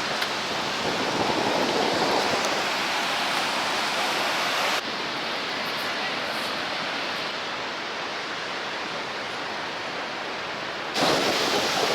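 Steady rushing noise of the Horseshoe Falls waterfall heard close up. It drops abruptly in level about five seconds in and jumps back up near the end.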